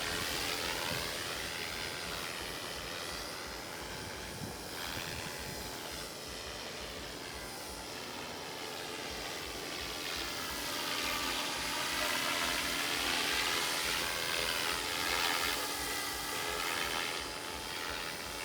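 Radio-controlled model airplane flying passes, its motor and propeller whine steady, sweeping down and back up in pitch several times as it goes by, loudest in the second half.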